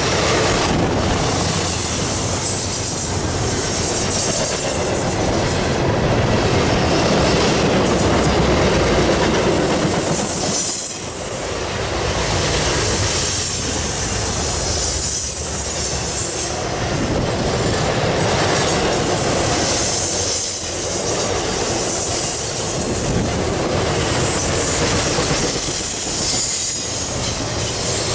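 A long intermodal freight train of double-stack containers and highway trailers rolling past at close range. Its steel wheels keep up a steady rumble and clatter on the rail, with a high wheel squeal that comes and goes.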